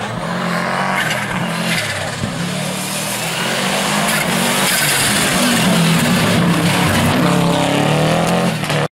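Historic rally car engine running hard, its pitch rising and falling, over loud tyre and road noise.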